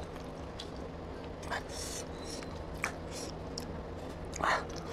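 Chewing and mouth sounds of a person eating mutton curry and rice by hand: scattered short wet smacks and clicks over a steady low hum.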